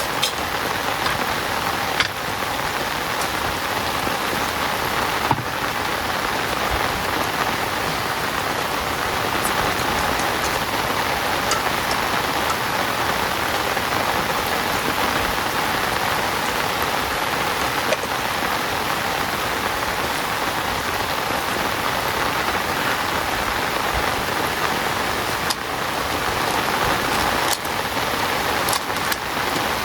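Heavy rain falling steadily, an even hiss with scattered louder drop ticks.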